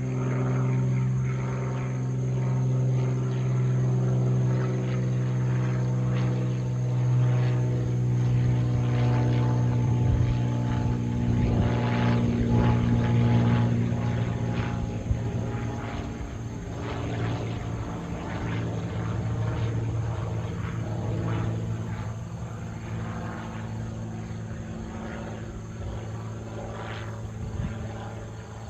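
Cessna 182T Skylane's six-cylinder piston engine and propeller droning overhead as the plane flies past, a steady low hum that grows louder to a peak about halfway through and then fades away.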